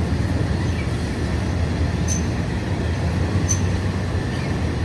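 Passenger train running along the track, heard from on board: a steady low rumble of wheels and running gear, with a couple of brief sharp high ticks from the wheels or carriage.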